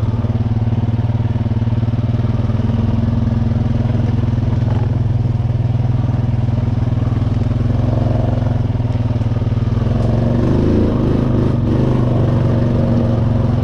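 Honda Rancher ATV engine running steadily under way, holding a near-constant engine speed, with a slight change in pitch about ten seconds in.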